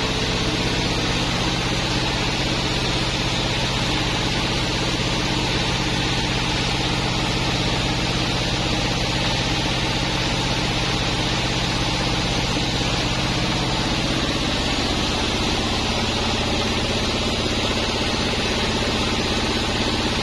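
A 36-inch sawmill bandsaw running steadily with a low machine hum and a hiss above it. About fourteen seconds in, the low hum changes.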